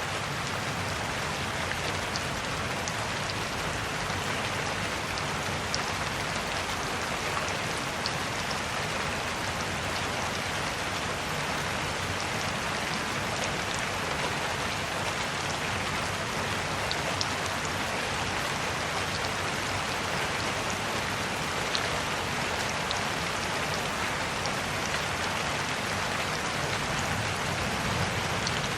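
Steady rain falling, a continuous hiss with scattered small drop ticks on a surface.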